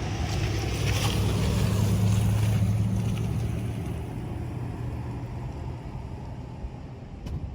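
Rolling thunder: a low rumble that swells over the first two seconds and then slowly dies away, over the steady hiss of falling rain.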